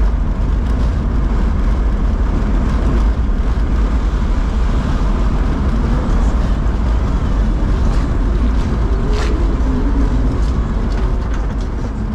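Loud, steady outdoor street noise with a heavy low rumble, fading near the end.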